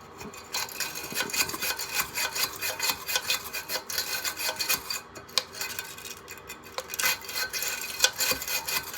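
A brush scrubbing quickly back and forth across the dirt-caked fins of an HVAC blower assembly, a run of rapid rough strokes.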